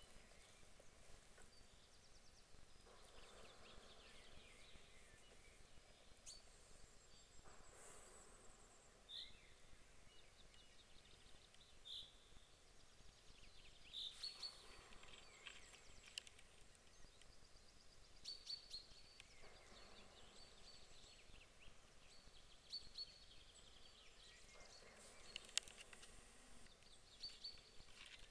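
Faint outdoor ambience of small birds singing: scattered short chirps and trills throughout, over a soft rushing background that swells and fades every few seconds.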